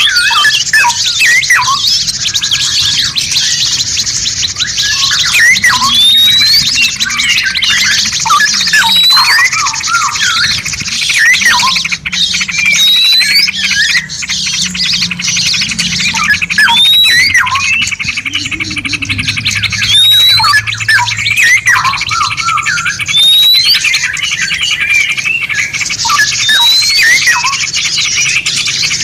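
Several songbirds calling and singing at once: a dense mix of chirps, squawks and short whistles, with a rising whistle repeated every second or two, over a steady high-pitched buzz.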